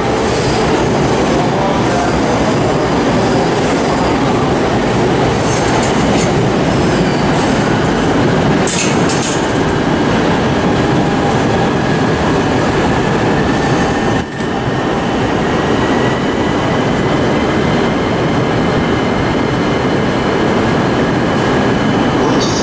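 JR commuter electric train running over the track switches: a continuous wheel-on-rail rumble with a few sharp clicks over the points and a thin high wheel squeal that sets in about halfway through.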